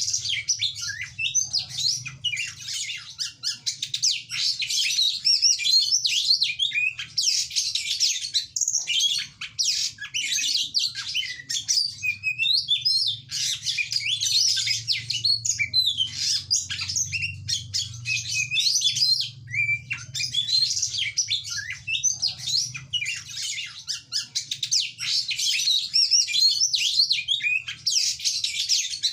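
Oriental magpie-robin (kacer) singing a rapid, continuous, varied song of whistles, trills and chattering notes, with only brief pauses.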